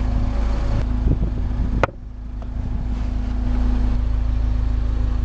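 Steady low hum of an idling car engine, with one sharp click a little under two seconds in.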